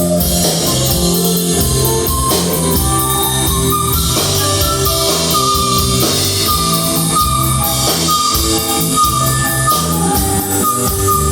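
Live rock band playing an instrumental passage: electric guitars over bass and a drum kit, with no singing.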